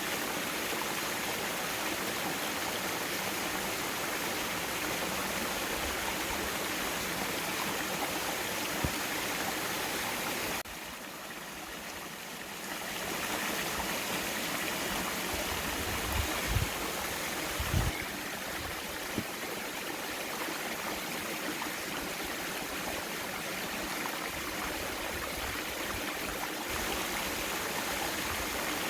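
Mountain valley stream flowing steadily. The sound drops in level briefly about a third of the way in, and a few short low thumps come near the middle.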